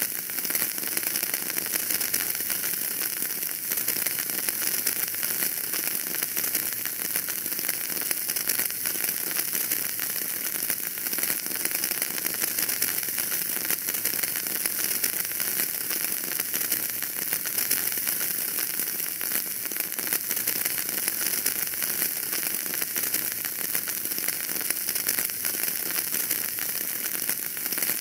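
Wood fire burning in a fireplace, crackling steadily with dense small pops and snaps over a soft hiss.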